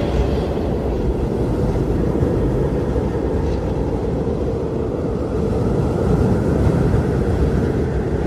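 Strong blizzard wind blowing steadily in a low, rumbling howl, swelling a little near the end.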